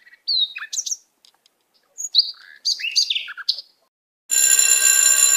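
Birds chirping: two clusters of quick, high, gliding notes. Then music with a held, bright chord starts about four seconds in.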